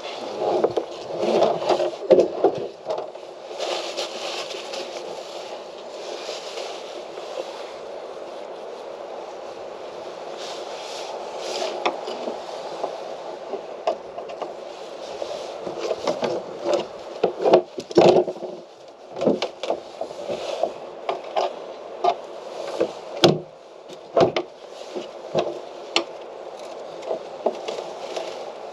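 Wooden interior fittings of a Caprice 19 sailboat being pried and pulled loose: scraping with irregular knocks, the knocks coming thick and sharp in the second half.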